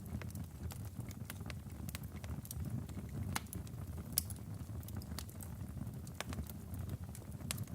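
Wood fire burning in a fireplace: a steady low rumble of the flames with irregular sharp crackles and pops from the logs, one louder pop about four seconds in.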